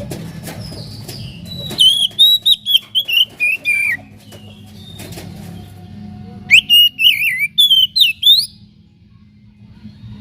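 Oriental magpie-robin (kacer) singing: two quick runs of loud, whistled notes, the first sliding gradually downward in pitch, over a steady low hum.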